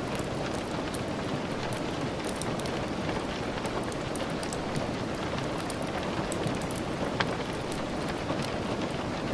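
Steady rain falling, with scattered sharp clicks over it and one louder click about seven seconds in.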